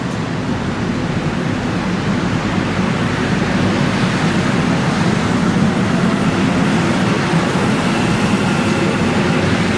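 Train running through the station with a steady rumble that slowly grows louder.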